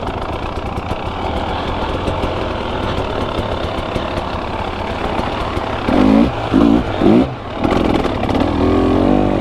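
KTM 300 EXC two-stroke enduro motorcycle engine running on a trail ride, with three quick blips of throttle about six to seven seconds in, then a steadier higher-revving pull near the end.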